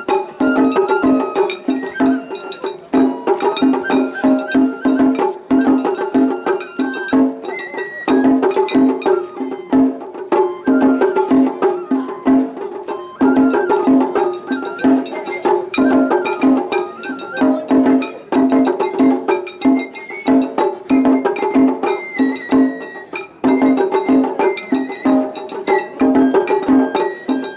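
Japanese festival hayashi music: taiko drums beating a fast, driving rhythm, with a bamboo flute playing a stepped melody above them and a small hand gong clanging along.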